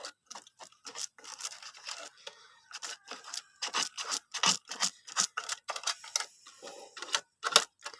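Irregular clicks, knocks and short scrapes of objects being handled, with no machine running.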